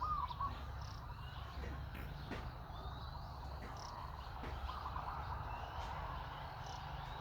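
Outdoor forest ambience: short chirping calls and faint gliding whistles over a steady low rumble. The loudest call is right at the start.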